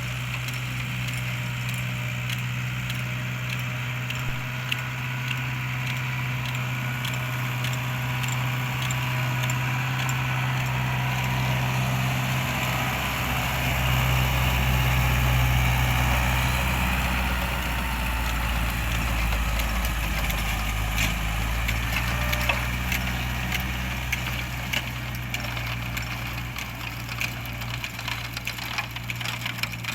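Same Corsaro 70 DT tractor's diesel engine running steadily, with light rattling and clattering over it. The low drone deepens and grows louder for a few seconds around the middle, then settles back.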